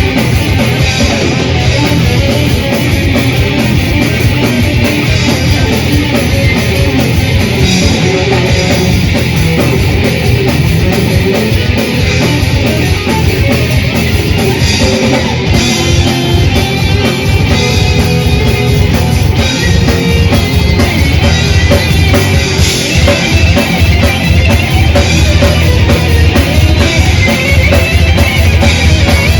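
Death/thrash metal band playing live: loud distorted electric guitars and bass over fast, dense drumming, without a break.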